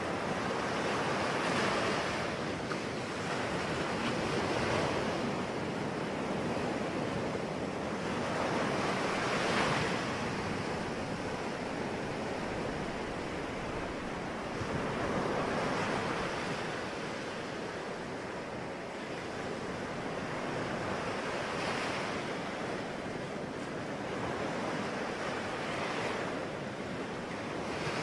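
Sea waves breaking on a shore in a continuous wash of surf, swelling and easing every few seconds.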